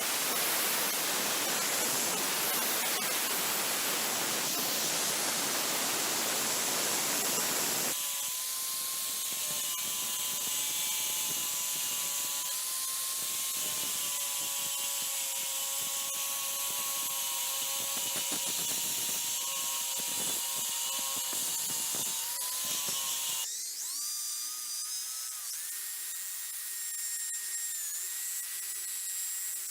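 Power tools working on a rusty adze head, in three abrupt segments. The first is a dense grinding hiss; after a sudden change about eight seconds in, a motor whine with steady, slightly wavering tones runs over a softer hiss; a second sudden change near the end brings a higher, steady whine.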